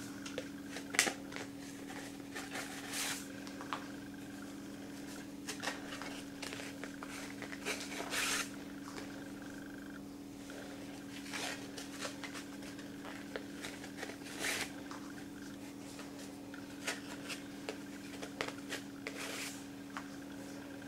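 Ribbon rustling against a CD as it is wound around the disc: scattered soft rustles and small clicks of handling over a steady low hum.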